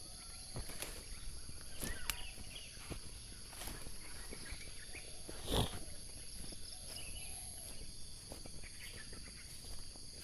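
Steady high-pitched insect chorus, with scattered footsteps and rustling through undergrowth and one louder knock about five and a half seconds in.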